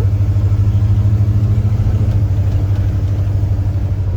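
1979 Ford pickup truck engine running steadily, heard from inside the cab, with a low, even pulsing note.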